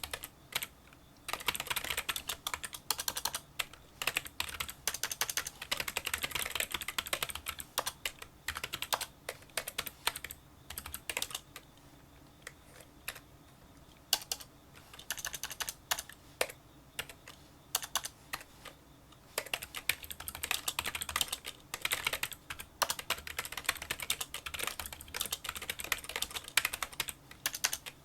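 Touch typing on a Kinesis Freestyle Solo split keyboard with membrane key switches: fast runs of small, light key clicks, broken by a few brief pauses.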